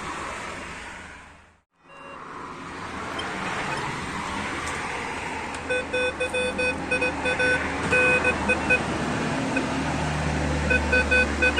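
Metal detector, a Minelab Vanquish, sounding its target tone as rapid, choppy beeps of a single pitch that begin about halfway through, over a steady rustling background noise. The sound cuts out briefly near the start.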